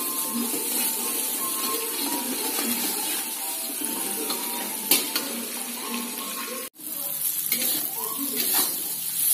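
Stir-fry sizzling in a hot wok, with a metal spatula scraping and clinking against the pan as the food is tossed. The sound breaks off for a moment about two-thirds of the way through.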